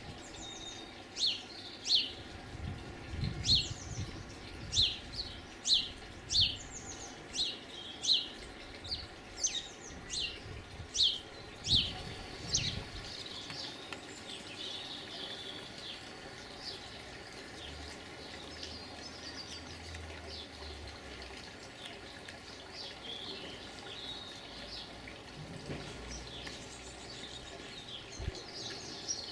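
A garden bird singing a run of short, sharp chirps, about two a second, for the first dozen seconds, then softer twittering near the end. Under it there is a faint steady hum.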